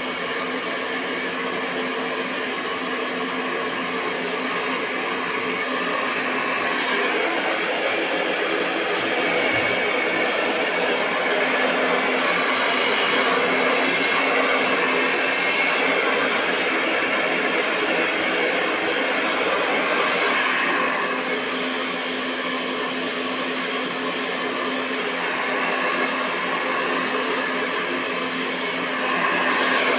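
Hair dryer running continuously: a steady rush of blown air over the hum of its motor, swelling a little in level now and then.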